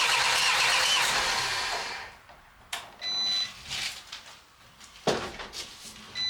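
Swapped engine in a Peugeot Expert van turning over on the starter motor without catching, then cutting off about two seconds in. It is a no-start, cranking on a dose of brake cleaner sprayed into the intake. A short high electronic beep sounds twice afterwards, about three seconds in and near the end, with a couple of knocks between.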